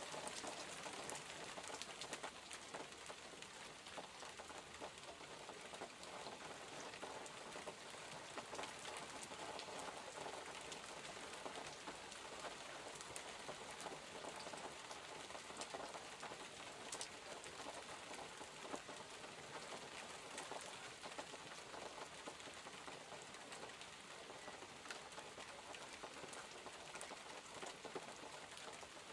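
Steady rain falling, with many small separate drop ticks over an even hiss.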